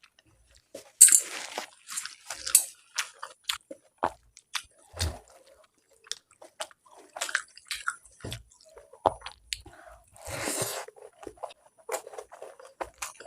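A person chewing and biting food close to the microphone: irregular sharp mouth clicks and crunchy bites, the loudest about a second in, with a longer crunching stretch about ten seconds in.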